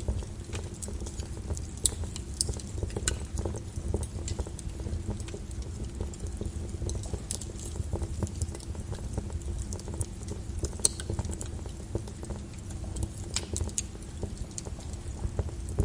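Flowing lava crackling and popping over a steady low noise, with sharp cracks at irregular intervals.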